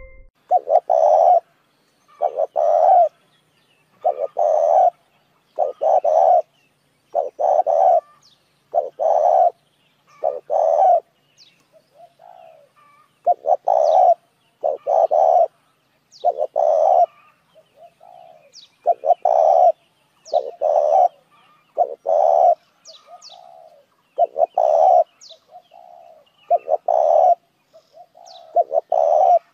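Spotted dove cooing: its lure call, as used to draw in other doves. Loud low coos repeated in close groups every second or two, with faint thin high chirps from other small birds between them.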